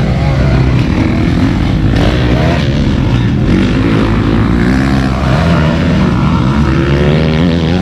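Motocross motorcycle engines running loud, several at once, their pitch rising and falling as the riders rev and ride.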